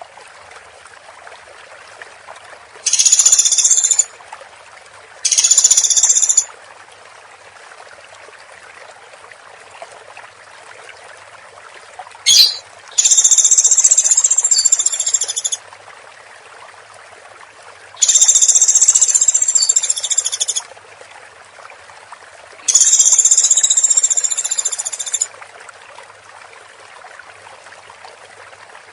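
Woodpecker calling: five high, rattling bursts of one to two and a half seconds each, spaced a few seconds apart, over a steady hiss. There is a single sharp click about twelve seconds in.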